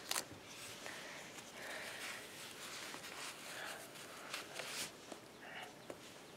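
Faint rustling and a few soft clicks from a diaper being handled and fastened around a plastic baby doll.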